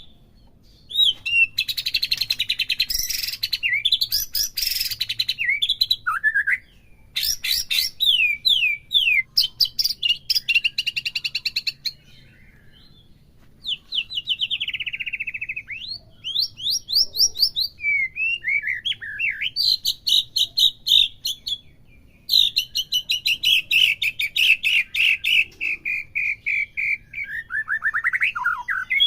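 White-rumped shama singing a loud, varied song of clear whistles, rapid trills and sweeping notes, with a short pause about twelve seconds in.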